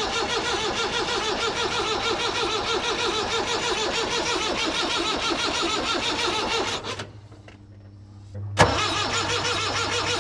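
Perkins 4203 four-cylinder diesel in a 1962 Lansing Bagnall forklift being cranked over on its starter without firing, in a steady rhythmic churn. About seven seconds in the cranking stops, leaving a low hum. A sharp clunk follows, and the cranking starts again.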